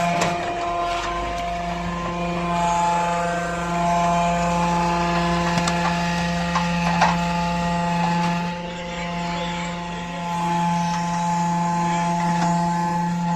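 Electric hydraulic power pack running a truck-mounted crane, a steady motor-and-pump hum with a lower rumble that drops away about eight to ten seconds in. A few sharp clicks and knocks from the crane's moving parts.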